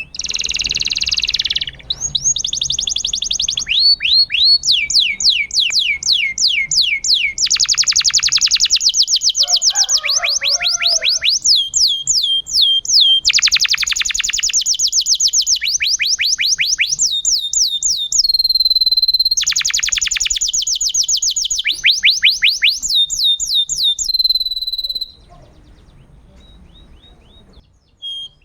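Domestic canary singing a loud, fast song of rapid repeated trills and sweeping notes in phrases with short breaks. The song stops about 25 seconds in, leaving only faint chirps.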